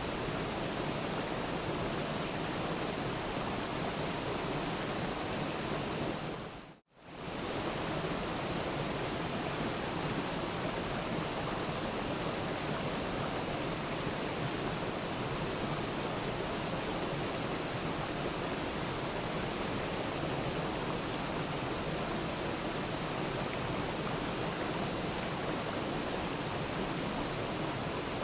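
Steady rushing of a waterfall, an even wash of falling water. About seven seconds in it fades briefly to silence and comes straight back.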